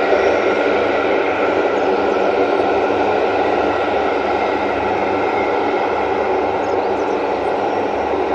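Transport aircraft engines running steadily: a broad rush with a steady whine on top, easing slightly toward the end.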